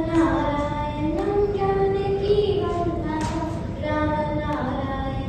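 High voices singing a slow melody in long held notes that glide from one pitch to the next.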